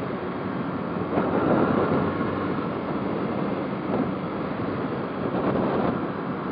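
Motorcycle on the move: the engine runs under a steady rush of wind on the microphone.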